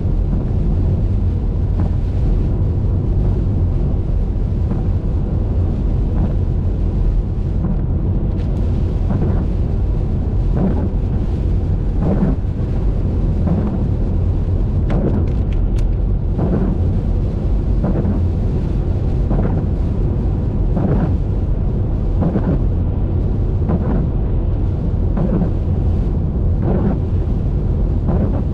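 Car driving on a wet highway in rain: a steady, loud low rumble of road and wind noise, with a short swish repeating about every second and a half from about a third of the way in.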